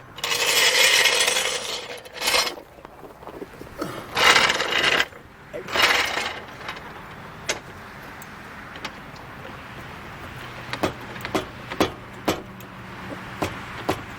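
A noisy metal floor jack being moved into place, scraping and rattling in several loud bursts over the first six seconds. Then comes a quieter stretch of scattered sharp metallic clicks that come more often near the end.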